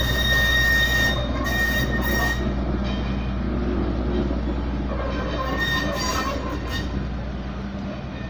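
Train running on rails with a low, steady rumble, its wheels squealing in a high, steady tone for the first couple of seconds and again briefly about six seconds in.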